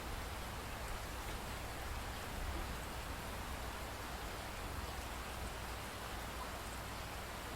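Steady rainfall, an even hiss of falling rain with faint scattered drop ticks over a low rumble.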